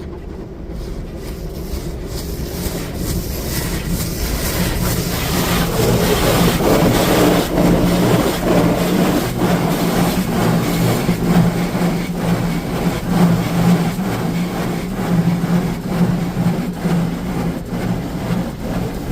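High-pressure rinse arch of an automatic tunnel car wash blasting water jets against the car, heard from inside the car. The spray builds over the first several seconds, then stays loud and steady over a constant low hum.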